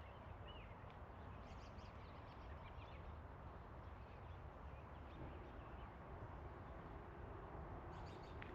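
Quiet wetland ambience with a few faint, distant bird chirps over a low steady background hush.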